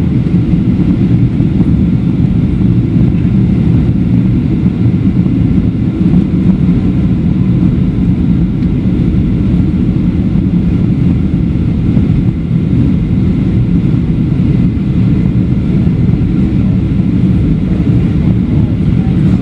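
Steady low rumble inside the cabin of a Boeing 737-700 on final approach: airflow noise and its CFM56-7B engines at approach power, with no change in level.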